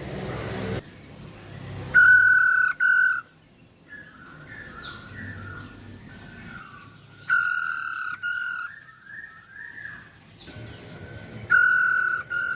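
Female poksay hongkong (a laughingthrush) calling: three loud, harsh calls, each in two parts, about four to five seconds apart, with soft chirping twitters between them.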